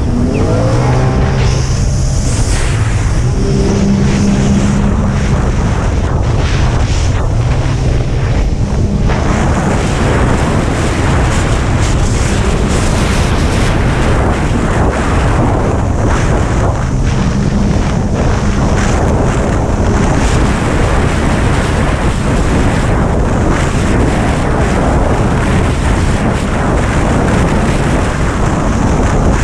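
Jet ski engine running, with heavy wind noise on the microphone and water spray. Its pitch rises and falls over roughly the first nine seconds, after which the wind and water noise dominates.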